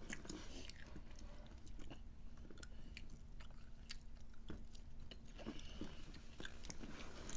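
People chewing food close to the microphone, with soft crunches and many scattered small crisp clicks; a faint steady hum sits underneath.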